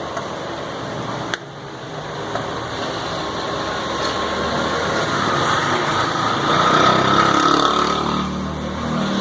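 Motor vehicle engine running, likely a small motorcycle in the market lane, getting louder toward a peak about two-thirds of the way in, over busy street noise.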